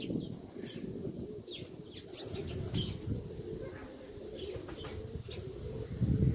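Nikolaev pigeons cooing, with wing flaps and many short, high, falling chirps.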